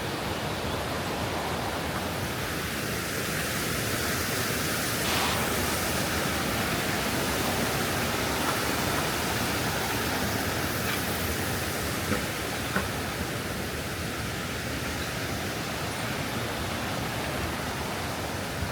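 Waterfall water rushing, a steady even roar of falling and flowing water.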